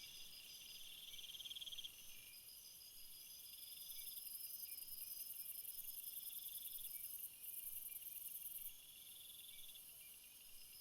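A chorus of crickets chirping in rapid, overlapping pulsed trills at several pitches, with a high, even buzz above them that grows louder about four seconds in and drops back near nine seconds.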